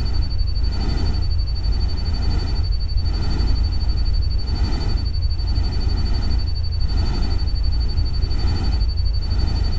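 Artificial ambient nature-sound track: a steady deep rumble under a noisy wash that swells and fades about once a second, with a thin steady high tone over it.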